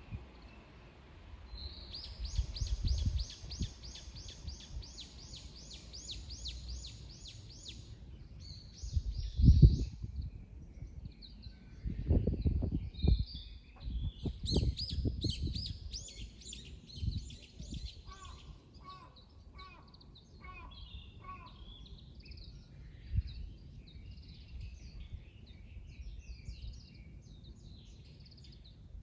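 Wild birds singing: a fast run of high, evenly repeated notes for several seconds, then scattered chirps and a shorter run of lower repeated notes. Strong low rumbling bursts come and go beneath them, the loudest about nine seconds in.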